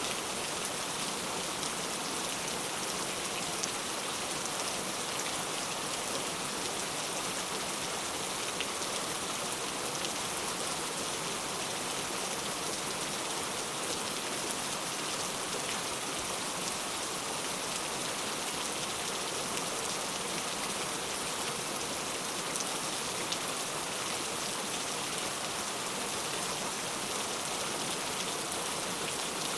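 Steady rain falling and hitting a surface, an even hiss with fine pattering of individual drops and no change in intensity.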